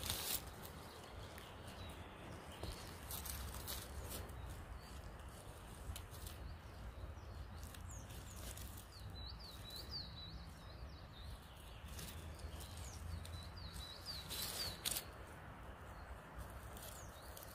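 A small songbird sings two short runs of quick, high chirps, about nine and thirteen seconds in. Under it are a steady low rumble and a few brief rustles, the loudest just after the second run.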